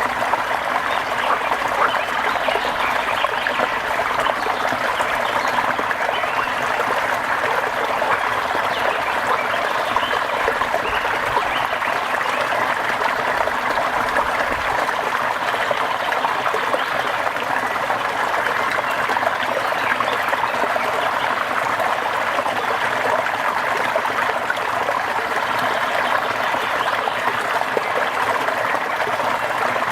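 Steady rain falling, an even wash of water noise that holds at the same level throughout.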